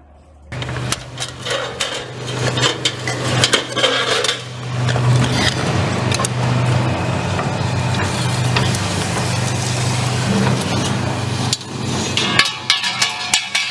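TDF flange roll-forming machine running, with a steady motor hum and metallic clatter and rattling of sheet metal. It starts abruptly about half a second in.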